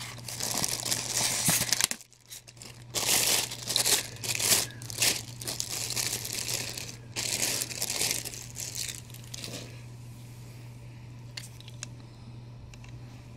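Plastic packaging crinkling and tearing as a collectible statue is unwrapped, in irregular bursts with a short pause about two seconds in; it dies down about ten seconds in, leaving a few small clicks over a faint steady hum.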